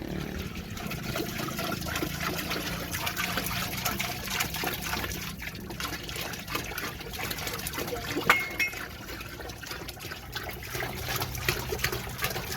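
Water trickling and pouring into a container, a dense stream of small splashes, with one sharp knock about eight seconds in.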